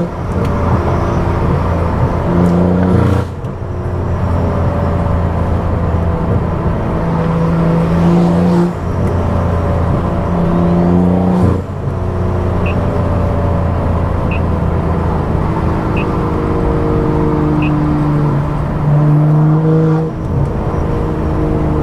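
Stage 2+ tuned BMW F10 535i's turbocharged inline-six with a loud aftermarket exhaust, under way. The engine note drops sharply about four times, as at gear changes or lifting off, and holds steady in between. A faint tick repeats about every second and a half in the middle stretch.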